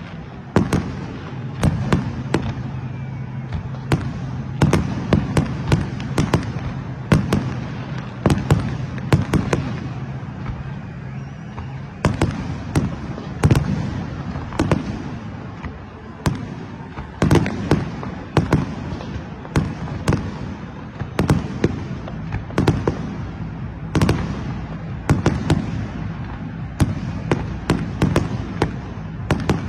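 New Year fireworks going off in a dense, irregular string of sharp bangs, often several a second. A low steady hum runs underneath for the first dozen seconds or so.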